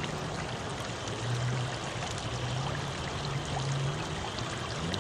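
Flash-flood water rushing steadily, with a low hum underneath that steps up and down in pitch.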